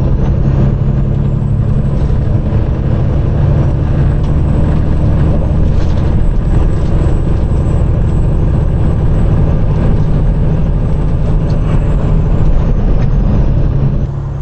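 Peterbilt 389 glider's diesel engine running loud and steady under way, heard from inside the cab. The level drops suddenly near the end.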